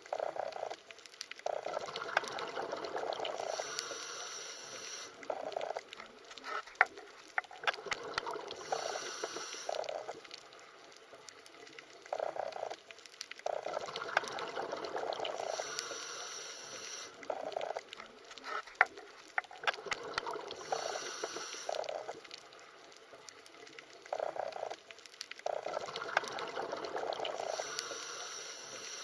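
Underwater water sounds: bubbling and gurgling that swells and fades about every six seconds, with scattered sharp clicks.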